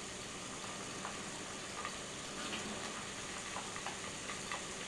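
Chicken breasts frying in hot vegetable oil in a pan: a steady sizzle with scattered small pops and crackles.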